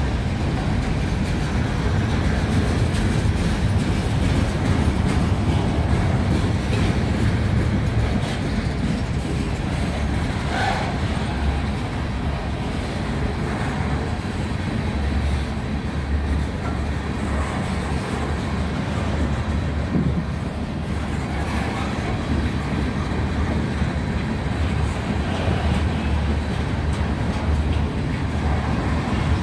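Freight cars loaded with trash containers rolling past on the rails: a steady, heavy rumble of steel wheels on track.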